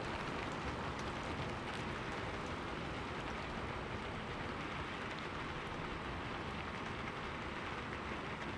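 Steady heavy rain falling and pattering on hard surfaces, with scattered drop ticks.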